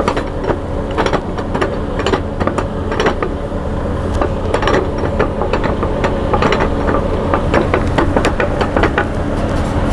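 Freightliner Cascadia semi truck running down the road with a steady engine drone and irregular knocks and rattles from the rear drive axles. It is the noise of a failing tandem driveline: the power divider had stuck and the differential's ring gear was worn out from running on low, burnt oil.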